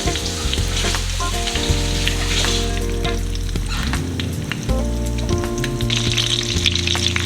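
Breaded chicken cutlets frying in hot olive oil in a pan, with a steady sizzle and fine crackling.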